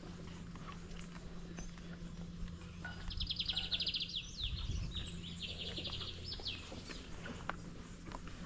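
A bird singing two quick phrases of rapidly repeated high notes, the first about three seconds in and the second about five seconds in.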